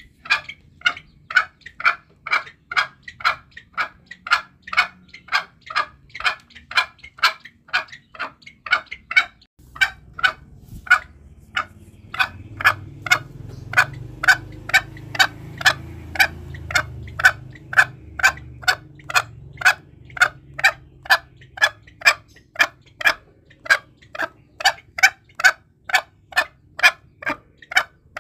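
Green junglefowl giving a long run of short, sharp clucking calls, about two to three a second, with a brief break about a third of the way in.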